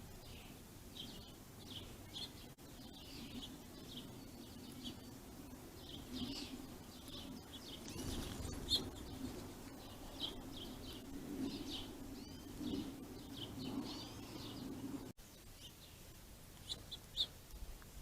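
Small songbirds chirping repeatedly with short, high calls, over a low steady background hum that stops abruptly about fifteen seconds in.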